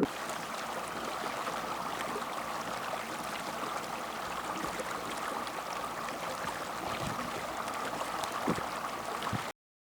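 Steady rush of moving water, with a few faint knocks late on; it cuts off suddenly near the end.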